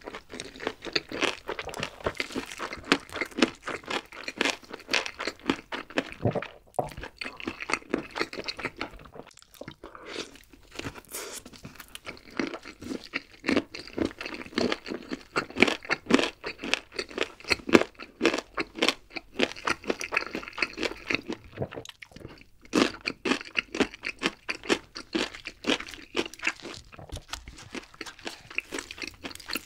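Close-miked chewing of crispy fried chicken: a rapid run of crunches with a few short pauses.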